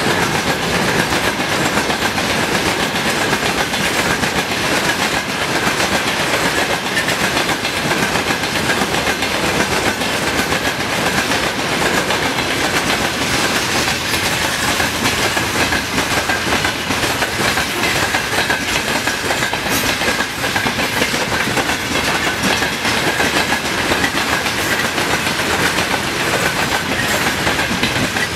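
Railway wagons rolling past on the track without a break, their wheels clicking over the rail joints, with a steady high whine above the rumble.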